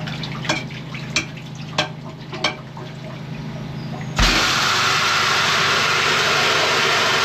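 Drain jetter running with a steady low hum while a few sharp knocks sound, about one every two-thirds of a second. About four seconds in, a high-pressure water jet comes on with a thump and hisses loudly and steadily.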